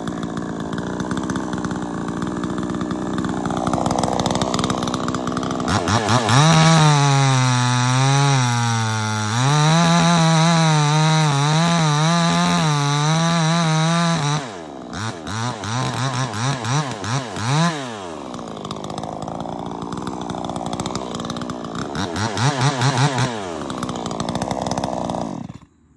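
Proyama 68cc two-stroke chainsaw engine running: lower revs at first, then held at high revs for about eight seconds with the pitch wavering as it cuts, then dropping back with several short throttle blips before the sound cuts off suddenly near the end. The owner says the chain stopped in the cut while the motor kept going, which he takes for a clutch not yet broken in, a little off centre, or overheating.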